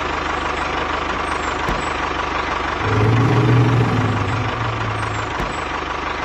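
Vehicle engine running steadily with a dense rattling noise; a deeper drone comes in about three seconds in and fades about two seconds later.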